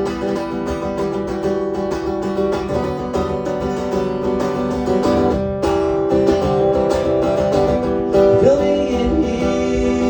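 Acoustic guitar strummed steadily through an instrumental passage of a live song.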